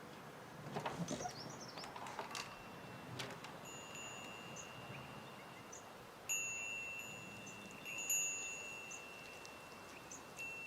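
Metal chimes ringing: a high note rings on from about two seconds in and is struck again twice, about six and eight seconds in. A few faint clicks and knocks come before it.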